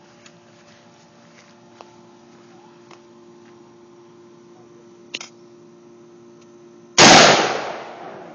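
A single AR-15 rifle shot about seven seconds in, very loud and sudden, its report dying away over about a second. A short faint clicking comes a couple of seconds before it.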